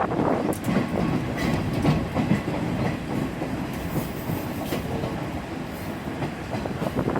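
Diesel railcar train running along the track, heard from inside the leading car: a steady rumble of running noise, with the wheels clicking over rail joints a few times.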